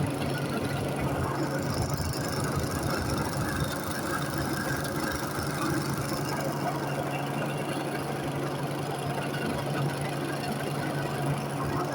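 A steady engine drone with a constant low hum and a wash of noise over it.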